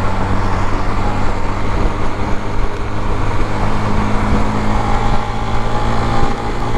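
Suzuki GZ250's single-cylinder engine running steadily at freeway speed, under loud, even road and traffic noise.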